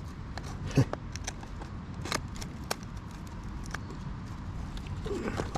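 Scattered sharp clicks and light scrapes of a knife cutting fine bark off a stick for kindling, over a steady low background rumble.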